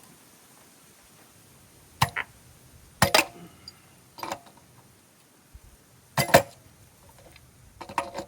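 Irregular metal clanks and knocks, some in quick pairs and a few with a short ring, from scrap metal being struck and worked while a threaded brass valve fitting is freed from salvaged appliance parts.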